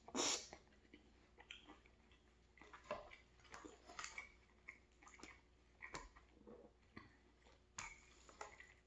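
Close-miked chewing of a soft mouthful of pulled pork and cabbage stew, with wet mouth sounds, and scattered light clicks of a metal fork against an aluminium foil tray.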